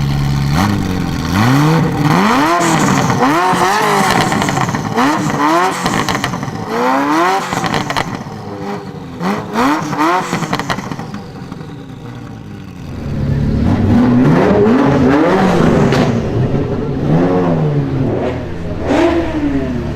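Ferrari F40's twin-turbo V8 on a custom straight-pipe exhaust, revved again and again in quick throttle blips that rise and fall in pitch, with exhaust crackles between them. It drops back to a steadier, lower note a little past the middle before a second string of revs.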